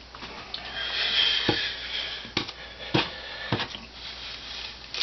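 Thin wood veneer and paper veneer tape being handled: a rustle for about a second and a half, and several light taps and ticks.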